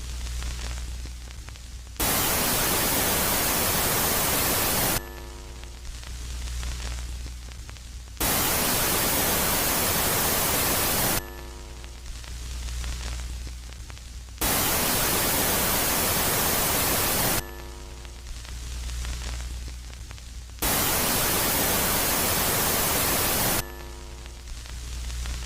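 Space-ambience sound piece presented as the sound of Jupiter's moon Megaclite, swinging steadily between a quiet phase and a loud phase. Loud stretches of static-like hiss of about three seconds each come four times, alternating with quieter stretches of low hum that open with a brief cluster of steady tones.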